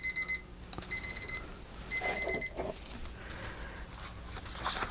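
Electronic timer alarm beeping in short bursts of rapid high-pitched beeps, three bursts about a second apart, then stopping about two and a half seconds in: the set crafting time has run out.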